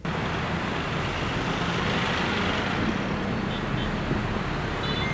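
Busy city road traffic: a steady wash of cars and motorbikes passing, with a few faint short high beeps near the end.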